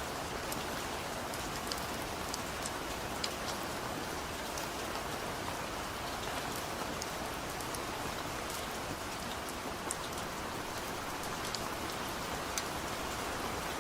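Steady heavy rain falling, with scattered sharp drop impacts on a hard surface.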